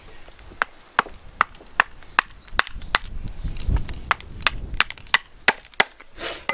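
A hand axe making quick, short chopping strokes into a seasoned alder spoon blank, about two or three sharp knocks a second. The wood is dry and hard, so each blow splits off chips.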